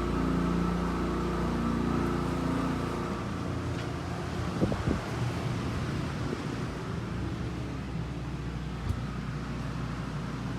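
Generator engine running steadily under the load of an RV air conditioner and microwave, its hum easing slightly about three seconds in. A few brief knocks sound around the middle and once near the end.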